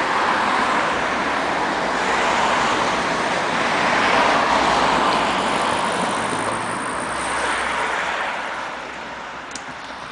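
Road vehicle noise: a steady rush of tyres and engine that swells around the middle and fades away near the end.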